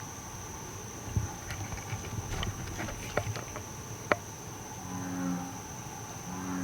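American bullfrog giving two short, deep, droning calls, about five and six and a half seconds in, over the steady high chirring of insects, with a few scattered clicks earlier.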